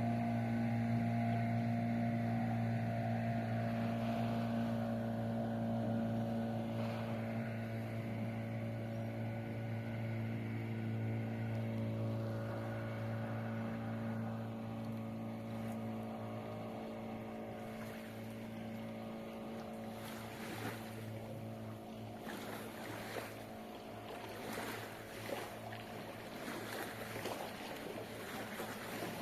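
Small boat motor pushing a kayak, a steady low hum with a whine above it. In the second half the hum eases a little and water splashing and wind gusts on the microphone come up.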